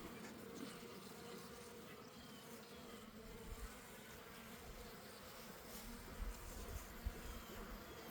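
A swarm of honeybees buzzing steadily and faintly around an opened hive, with a few dull low bumps partway through.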